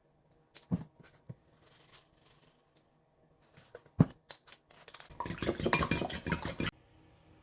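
Kitchen food-preparation sounds: a few sharp knocks, then a dense crackling, scraping burst lasting a second and a half about five seconds in.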